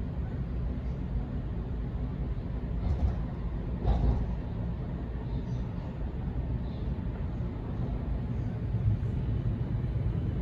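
Steady low rumble of a Sydney Trains Waratah electric train running on the track, heard from inside the carriage. There is a short knock about three seconds in and a louder one about four seconds in.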